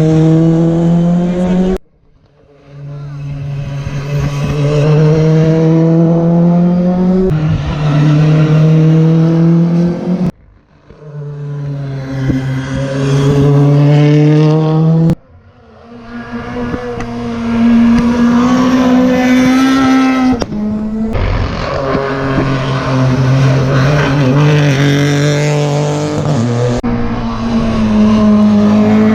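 Rally cars driven flat out on a special stage, one after another, each engine climbing through the revs with a drop in pitch at a gear change. The sound breaks off suddenly four times. Three times the next car then starts faint and grows loud as it approaches.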